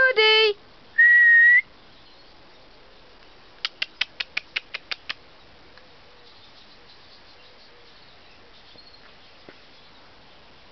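A person's single whistle, held for about half a second at a steady pitch and lifting slightly at its end, calling a tame bird. A couple of seconds later comes a quick run of about nine short, sharp clicks.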